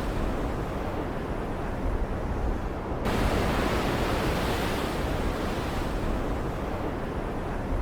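Stormy sea ambience: a continuous wash of waves and surf over a steady low rumble. The hiss brightens suddenly about three seconds in, then slowly fades away.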